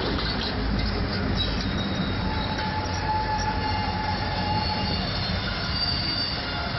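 A steady rumbling vehicle noise with several thin, high squealing tones held over it, like metal wheels or brakes squealing.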